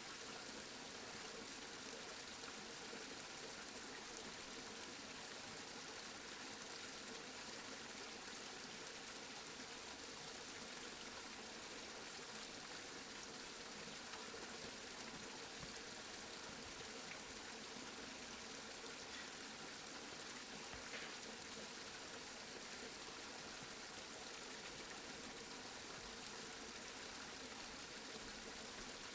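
Steady rainfall, an even hiss of falling rain with faint scattered drop ticks.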